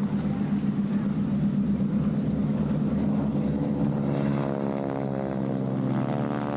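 Propeller aircraft engine running steadily, with a second, higher engine note coming in about four seconds in and wavering slightly in pitch.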